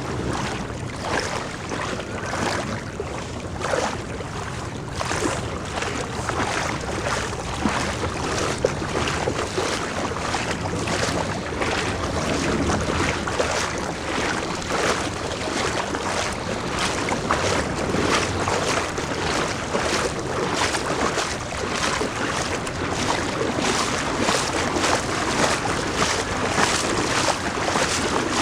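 Floodwater splashing and sloshing as someone wades through it, in irregular surges about once or twice a second that come thicker towards the end.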